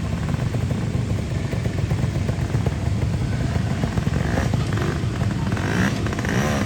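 Off-road motorcycle engine running, its pitch rising and falling near the end.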